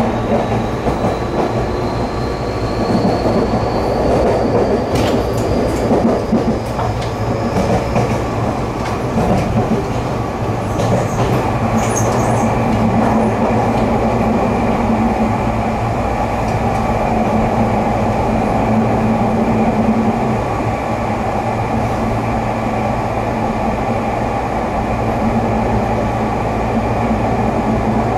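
Electric commuter train running on the rails, heard from inside the car: a steady rumble of wheels on track, with a faint whine that rises slowly in pitch over the first several seconds as the train pulls away and gathers speed. A few sharp clicks and brief high squeaks come near the middle.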